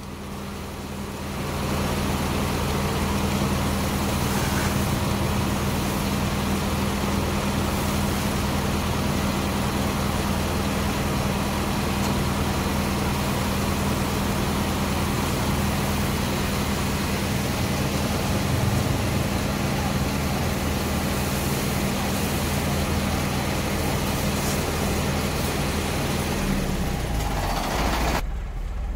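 Fire engine running steadily under pump load, with a loud, even hiss of water spraying from the hose in a fine mist. It builds up over the first couple of seconds and cuts off sharply near the end.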